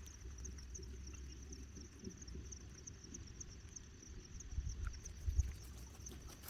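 Insects chirping steadily in a rapid, even, high-pitched pulse over a low rumble, with a few soft low thumps near the end.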